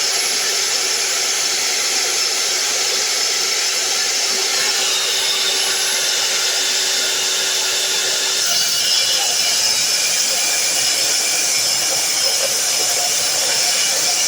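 A machine running steadily, with a loud constant hiss and a faint hum that stops about eight seconds in.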